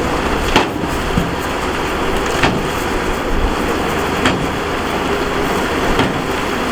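Heavy earthmoving machinery running steadily under load, with a sharp knock about every two seconds, four in all.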